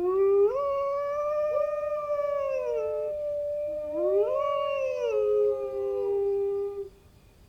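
Dogs howling: two voices in long, drawn-out howls that rise, hold and slide down, overlapping each other, with a second rise about four seconds in.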